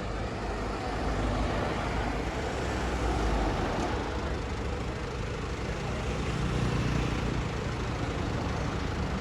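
Steady road-traffic and vehicle noise with a low rumble.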